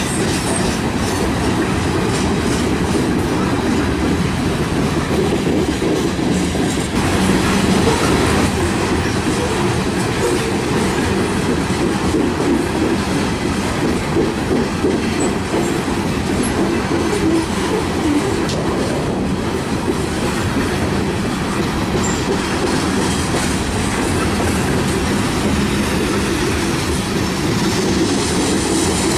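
Freight train of coal hopper cars rolling past at close range: a steady, loud rumble of steel wheels on rail.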